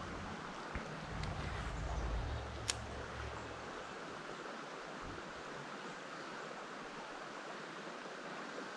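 Steady rush of flowing creek water, with a low wind rumble on the microphone during the first few seconds and a single sharp click a little under three seconds in.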